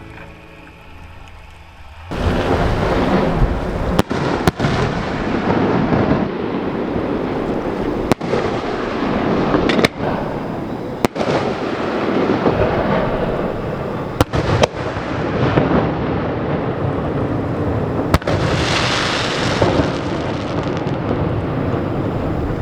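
Fireworks display going off in rapid succession: dense, continuous booming and crackling that starts suddenly about two seconds in, with the bangs echoing all the way around the surrounding bay.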